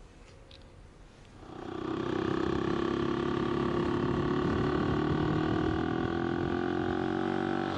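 AJP PR7 motorcycle's single-cylinder engine, faint at first, then coming up strongly about one and a half seconds in and running at a steady note.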